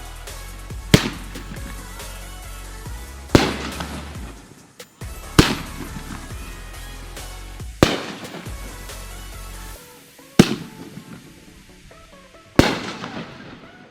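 Consumer fireworks going off: six loud booms roughly two to two and a half seconds apart, each trailing off briefly, over background music.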